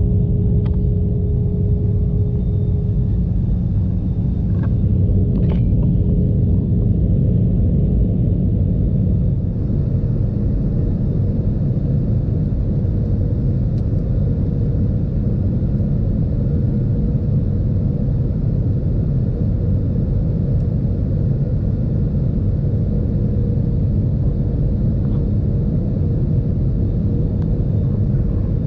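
Steady cabin noise of an Airbus A320 in flight: a continuous low rumble of airflow and engines with a faint steady hum.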